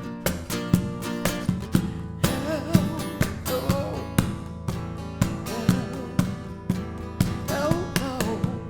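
Music: acoustic guitar strumming in a steady rhythm, with a melody line over it for a stretch near the middle and again near the end.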